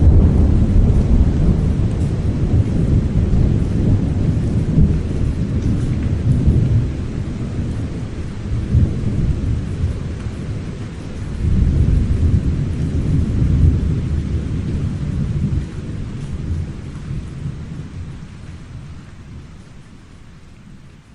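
Thunder rolling in a deep, loud rumble that swells again about halfway through and then slowly dies away, with steady rain hissing underneath.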